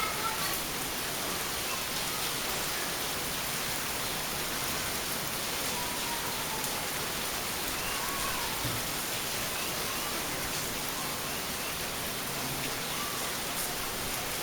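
Steady rain falling and pattering on surfaces, an even hiss that holds without letting up.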